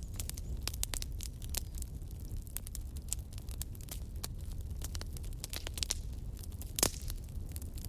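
Wood fire burning in a fireplace: irregular snaps and crackles over a steady low rumble, with one louder pop near the end.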